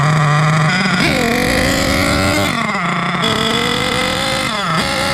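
HPI Savage X4.6's small nitro engine running rich during break-in: a buzzing engine note that steps up above idle about a second in, drops back briefly around the middle, rises again and falls near the end.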